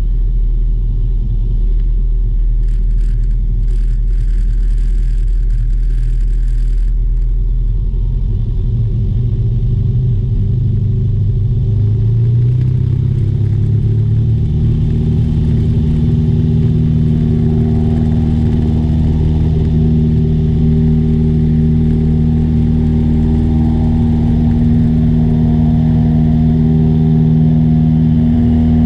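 Light aircraft engine and propeller droning, heard from inside the plane. The engine note rises about twelve to fifteen seconds in, then holds steady.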